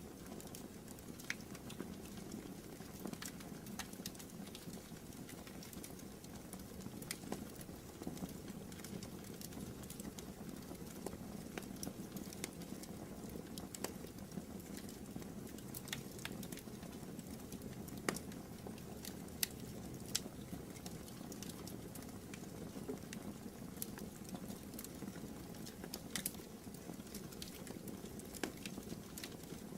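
Wood fire burning in a fireplace: a steady low rush of flames with irregular sharp crackles and pops scattered throughout.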